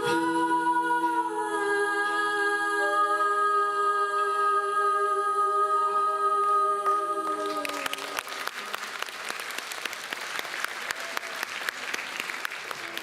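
A female vocal trio holds the closing chord of a song, some voices sliding down before it ends about seven and a half seconds in. Then an audience applauds.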